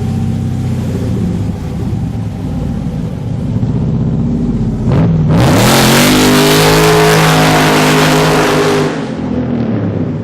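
Muscle car engine idling, then revved hard about five seconds in, held at high revs for about three seconds and dropping back to idle near the end.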